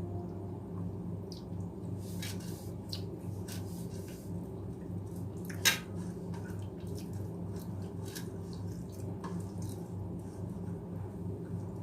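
Eating sounds: the small wet clicks and smacks of someone chewing rice, scattered and irregular, with one sharper click a little past halfway.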